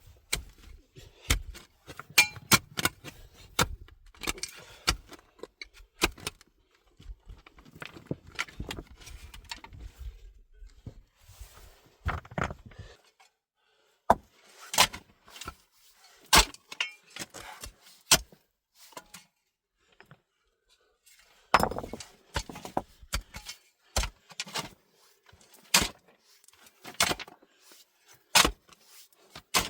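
Irregular clicks, knocks and light clinks of objects being handled, coming singly and in short clusters with brief quiet spells between them.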